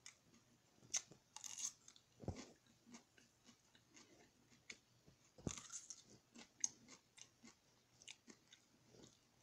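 A person biting and chewing a chunk of potato close to the microphone: many short, sharp mouth clicks, with louder bursts of chewing about a second in and again past the middle.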